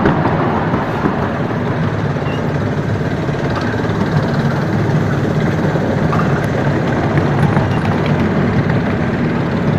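Miniature railway train running along its track, a steady rolling noise of wheels on rails heard from on board.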